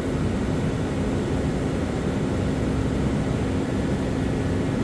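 Steady motor hum with one low, even tone, holding the same level throughout.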